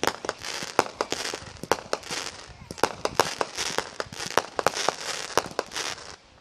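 Fireworks display going off: a rapid, irregular string of sharp bangs and cracks, several a second, with hissing between them.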